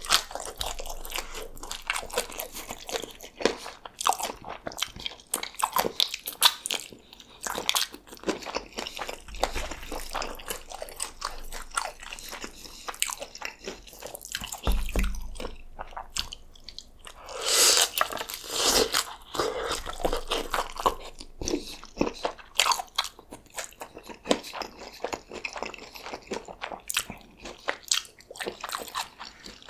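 Close-miked biting, crunching and chewing of birria tacos, with irregular crisp crackles throughout and a louder stretch of crunching about eighteen seconds in.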